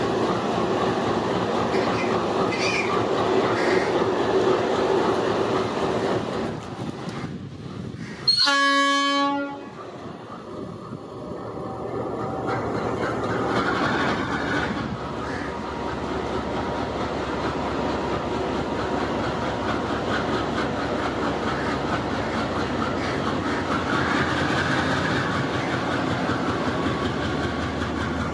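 Freight train wagons rolling past on the rails with a steady rumble and rattle. About eight seconds in comes a single horn blast of about a second, the loudest sound. The rolling then drops for a few seconds before building again.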